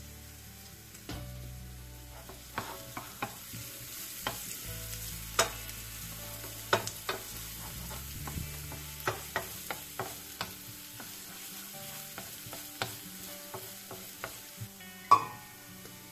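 Chopped red onion and garlic sizzling gently in oil in a non-stick frying pan, with a wooden spoon knocking and scraping against the pan as they are stirred. One sharper, louder knock near the end.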